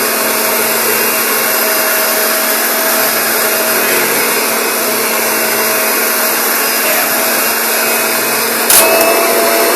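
Kirby upright vacuum cleaner running steadily while pushed in passes over carpet, picking up the sand left behind into its dirt meter. A sudden loud knock about nine seconds in.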